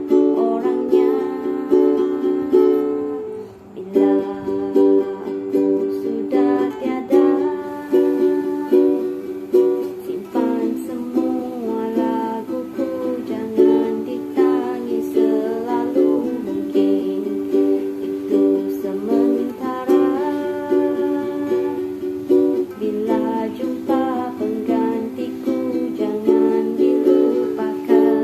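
Ukulele strummed in a steady rhythm, playing the chords of a song, with a brief break about three and a half seconds in.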